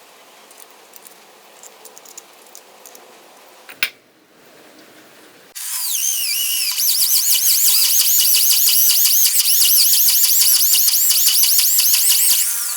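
A power drill's motor starts a little past halfway and runs fast with a high whine for about seven seconds, then cuts off at the end. Before it there are only faint clicks over a low hiss.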